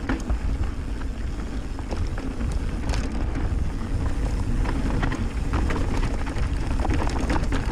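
Mountain bike riding fast down a trail: wind buffeting the camera microphone under the steady rumble of the tyres, with frequent sharp rattles and clicks from the bike over rough ground.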